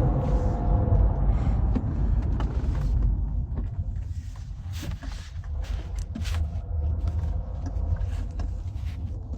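Car driving, heard from inside the cabin: a steady low engine and road rumble, with scattered light clicks and rustles in the middle.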